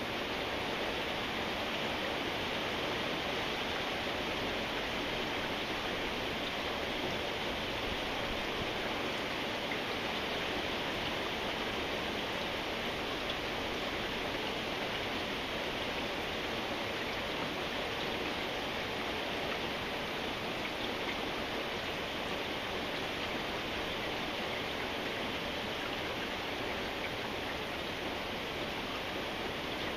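Steady rain falling, an even hiss of many drops with no single sounds standing out.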